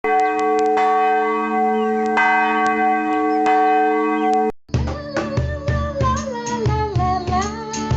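A bell ringing, struck several times, each stroke leaving a long sustained ring. About four and a half seconds in it cuts off and music with a melody takes over.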